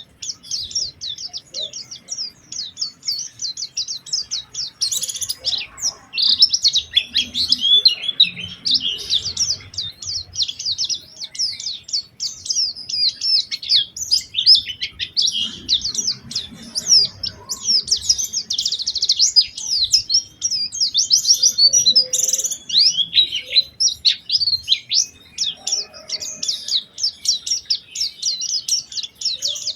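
White-eye (pleci) singing nonstop in fast, high, twittering chirps and short trills, the busy, steady song kept for lure recordings to get other white-eyes singing.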